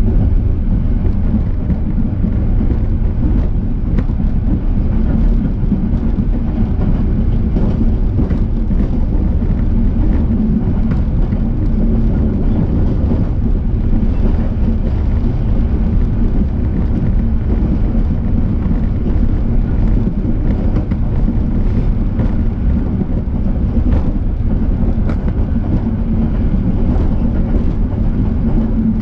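Passenger train in motion: a steady low rumble of wheels running on the track, with faint clicks now and then.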